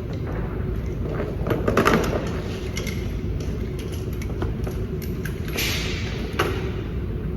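A few knocks and scrapes of things being handled, loudest about two seconds in and again near the end, over a steady low rumble of background noise.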